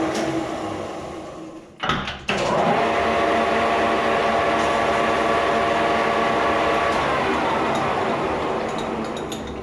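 Lathe running with a steady machine hum after a short knock about two seconds in. The hum starts to wind down, dropping slightly in pitch, near the end.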